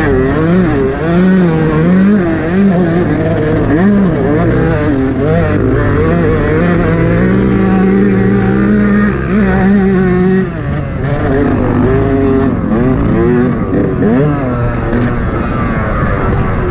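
Motocross bike engine revving up and down again and again as the throttle is worked, held at a steady pitch for a few seconds in the middle, with a brief drop around ten seconds in.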